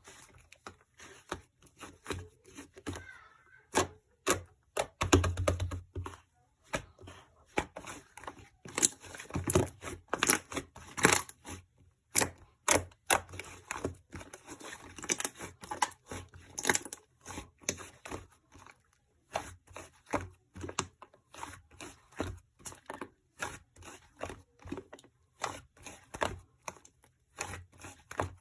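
Close-up handling sounds: a dense run of irregular clicks and taps, with a few short bursts of tearing or crinkling, one a few seconds in and more around the middle.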